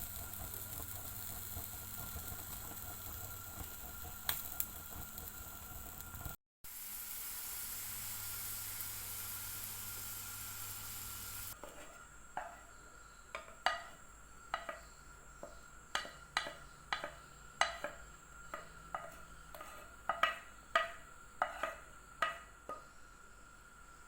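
Cassava frying in hot oil, a steady sizzling hiss for about the first half; then the sizzle cuts off and a run of light clinks and knocks of utensils on pans and dishes follows.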